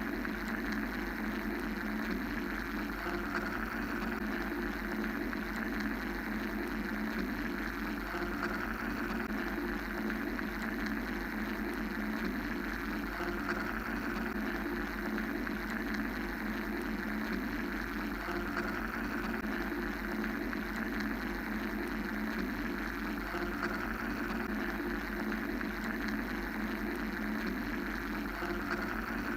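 Steady mechanical white-noise drone: an even, unbroken hum-and-hiss with a strong low-mid band and a softer, higher band that swells and eases slowly, over a constant low rumble.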